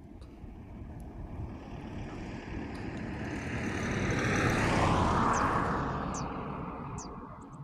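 A motor vehicle passing by: a steady engine and rushing noise that grows louder, peaks about five seconds in, then fades away as it recedes.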